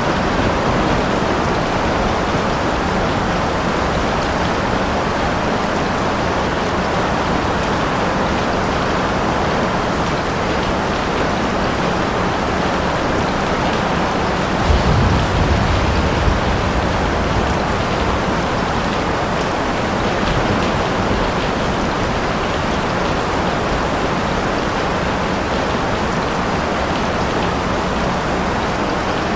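Steady rain falling, with a short low rumble of thunder about halfway through.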